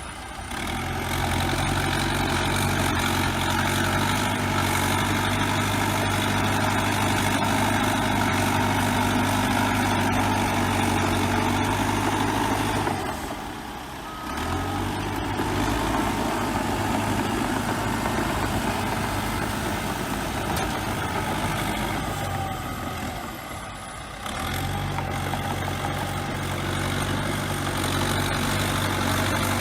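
Bulldozer diesel engine running steadily under load, a deep engine note with mechanical noise over it, broken by two short drops in level partway through and near two-thirds through.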